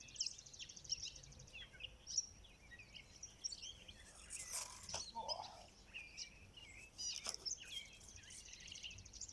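Birds chirping and singing outdoors, with a fast, high trill running through. A brief rush of noise comes about halfway through, and a couple of sharp clicks follow about two seconds later.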